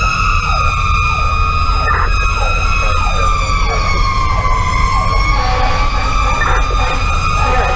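Fire engine sirens heard from inside the cab of a 2010 Pierce Velocity: a steady high siren tone that sags in pitch about four seconds in and climbs back up, layered over a faster siren repeating short falling sweeps about twice a second. The truck's Detroit Series 60 diesel runs underneath as a low rumble.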